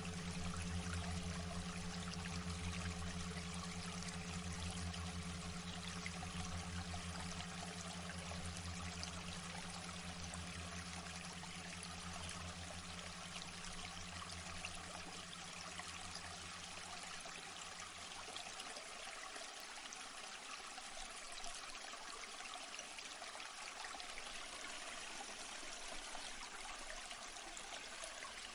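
Steady sound of running, trickling water, with a low hum underneath that fades out about two-thirds of the way through.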